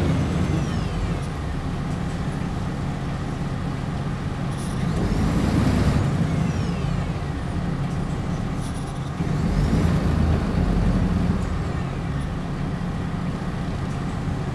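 Running sound from inside a Hino Blue Ribbon HIMR hybrid city bus: the diesel engine drones steadily, and the hybrid drive's electric whine rises and falls in pitch several times as the bus speeds up and slows. Two short hisses of air are heard, typical of the air brakes.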